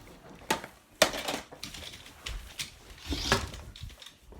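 Several sharp knocks and clatters, like objects being handled or set down, the loudest about a second in and another just past three seconds.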